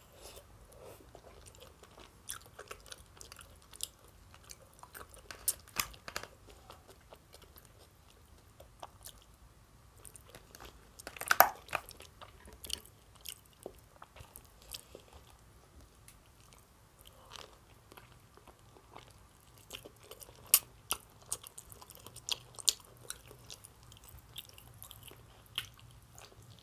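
Close-up mouth sounds of a person eating salad and a roast chicken leg: quiet chewing with scattered short wet clicks and smacks, and one louder click about eleven seconds in.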